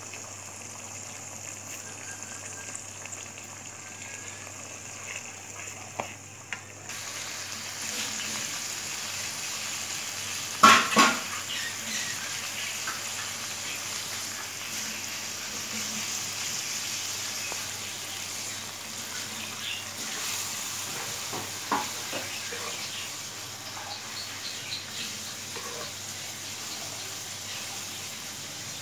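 Ground onion-and-spice masala sizzling in oil in a nonstick pan as it is fried, stirred with a spatula. The sizzle gets louder about seven seconds in, and there is a short burst of sharp clatter from the spatula against the pan about eleven seconds in, with a few lighter knocks later.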